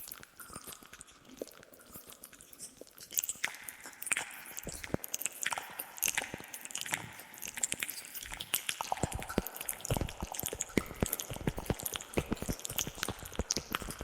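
Close-miked ASMR mouth sounds: wet clicks and smacks of tongue and lips. They are sparse at first, then come thick and fast from about three seconds in.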